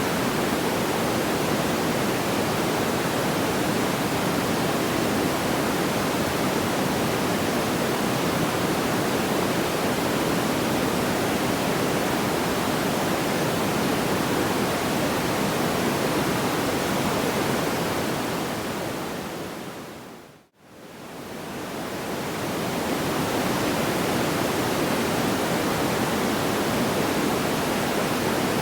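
Steady, even rushing noise without distinct crackles. About twenty seconds in it fades smoothly down to silence and at once fades back up, the seam where a looped sleep-sound track restarts.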